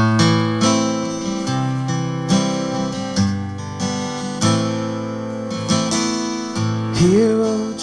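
Acoustic guitar strumming chords in the instrumental intro of a worship song. Near the end a singing voice comes in on a wavering held note.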